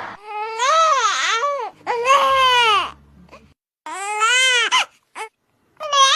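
Infant crying in a series of short, high-pitched cries, about four or five of them with brief gaps between. It is the 'neh' cry, which is taken to signal hunger.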